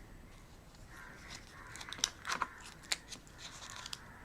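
Thin plastic protective film being peeled off a cable: crinkling and tearing with small crackles and ticks, loudest about two to three seconds in.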